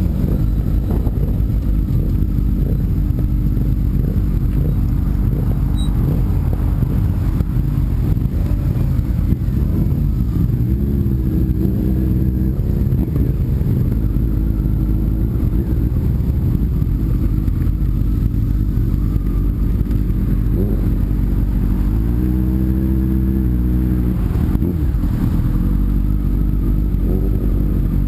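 Sport motorcycle engine running under way, its revs rising and falling through the gears, with two clear climbs in pitch, one about ten seconds in and another after twenty seconds, over a steady low wind rumble on the microphone.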